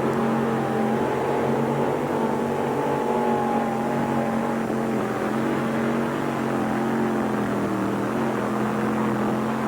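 1800-pound mini modified pulling tractor's 481-cubic-inch Rodeck engine running flat out under load down the pull track, a loud steady drone whose pitch sags a little midway and picks back up near the end.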